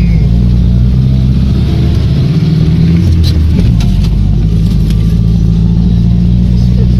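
Engine of a roughly 50-year-old off-road-modified GAZ running under load while driving off-road, its pitch shifting up and down with the revs. A couple of short knocks come a little past the middle.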